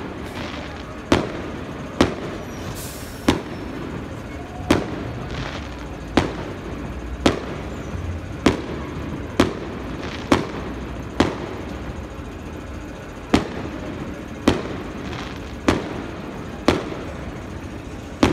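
Fireworks display: aerial shells bursting in a steady series of sharp bangs, about one a second, each with a short echo.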